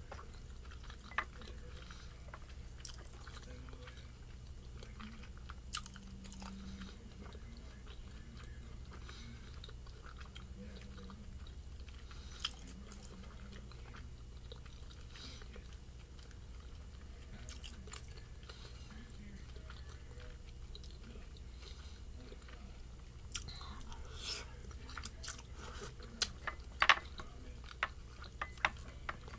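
Close-miked eating: quiet chewing of spicy noodles and dumplings, with scattered sharp mouth smacks and clicks that come thick and fast over the last several seconds. A faint steady low hum sits underneath.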